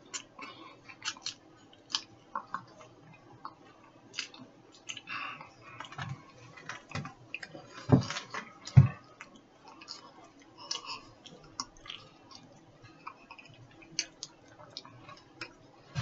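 A mouthful of dry crackers being chewed after it has turned to paste, with wet mouth clicks and smacks throughout. A few louder, low thumps come around the middle.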